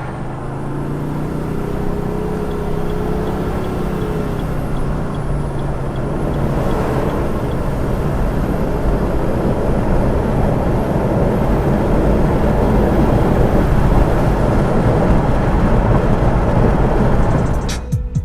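Twin-turbo Cadillac Escalade under way, its engine and road noise building steadily as it gathers speed.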